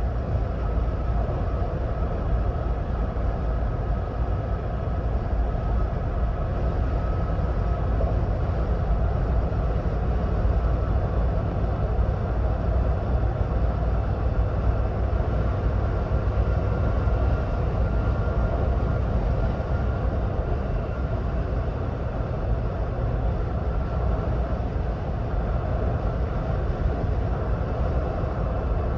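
Steady road and tyre rumble of a 2026 Ford Bronco Badlands cruising at highway speed, with a faint steady whine above it.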